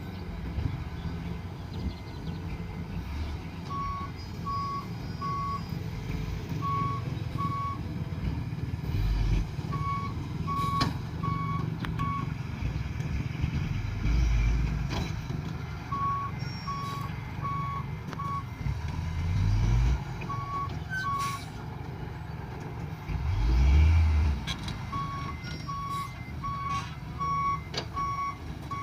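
Dump truck reversing: its backup alarm beeps in several short runs of about one and a half beeps a second over the steady running of the diesel engine, which revs up twice in the second half.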